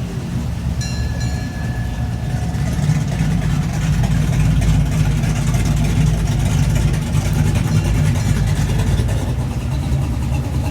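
A car engine running with a deep, steady low rumble that grows louder about three seconds in and then holds.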